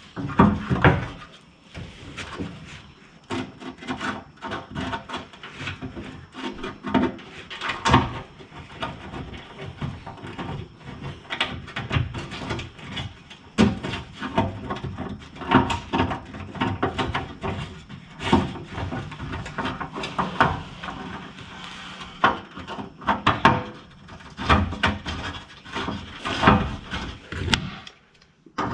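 Hands working with tools and metal parts: irregular knocks, clicks and scraping throughout.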